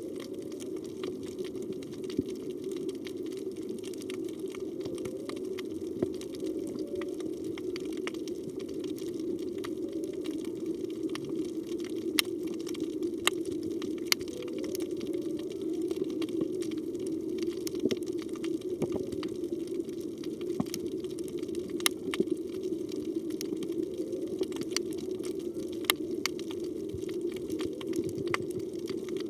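Underwater reef ambience: a steady low rush of water with scattered sharp clicks. Faint short rising-and-falling tones come and go a few times, the song of a humpback whale.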